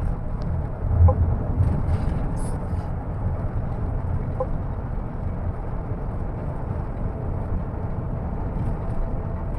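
Moving bus running on the road: a steady low engine and road rumble, with a brief louder swell about a second in and a few short high-pitched sounds soon after.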